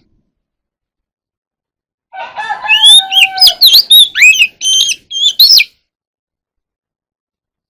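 Oriental magpie-robin singing a single phrase of sharp whistles and quick rising and falling notes, starting about two seconds in and lasting about three and a half seconds. The phrase opens over a lower, drawn-out call.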